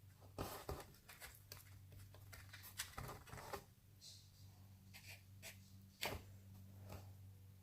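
Slime being squeezed and poked by hand, making faint irregular clicky pops and squelches, with a few sharper pops about half a second, three seconds and six seconds in. A steady low hum runs underneath.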